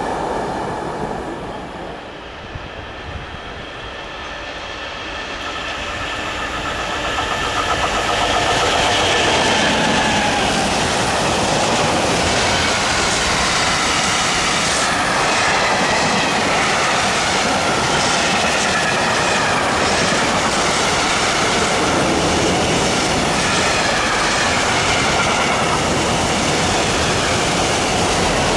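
Long freight train behind a Fret SNCF BB 27000 electric locomotive approaches and rolls past, building up over the first several seconds. Then hopper, tarpaulin and flat wagons keep rattling by steadily, with a clickety-clack of wheels on the rails.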